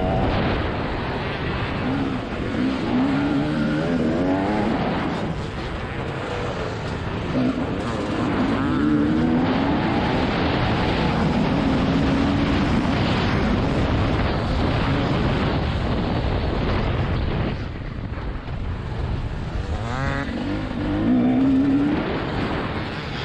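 TM 300 two-stroke motocross engine being ridden hard. Its pitch climbs on the throttle and drops off again several times, over a steady rush of noise.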